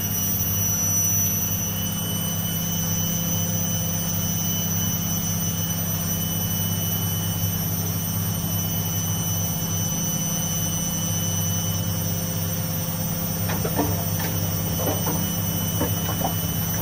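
Front-loading washing machines spinning at speed: a steady motor hum under a constant high-pitched whine. A few light rattles come in near the end.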